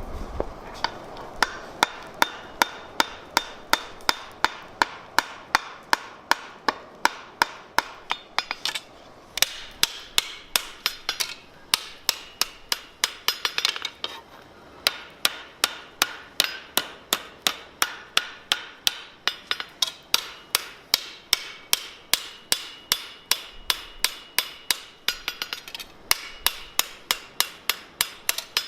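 Hammer forging steel on an anvil: a steady run of sharp blows, about three a second, each with a short metallic ring, with a few brief pauses between runs.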